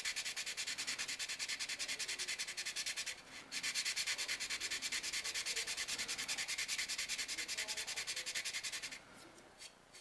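Sandpaper rubbed back and forth over a flat face of a plastic model-kit part in quick, even strokes, about five a second, sanding a dimple in the plastic flat. The strokes pause briefly about three seconds in and stop about a second before the end.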